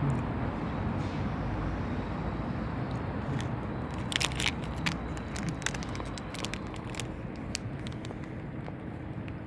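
Crackling fireworks: a scatter of sharp snaps that starts about four seconds in, over a steady low rumble of background noise.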